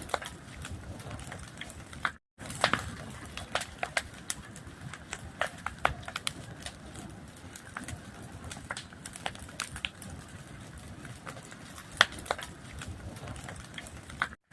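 Fire crackling: irregular sharp pops and snaps over a steady low rustle. The sound cuts out completely for a moment about two seconds in and again near the end.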